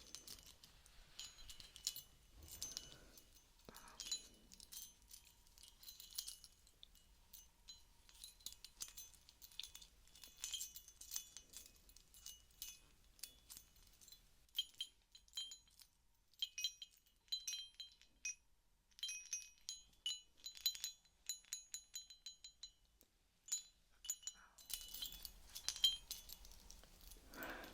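Small heart-shaped bell ringing softly, struck again and again in runs of quick tinkling strikes with high ringing tones, with brief pauses between the runs.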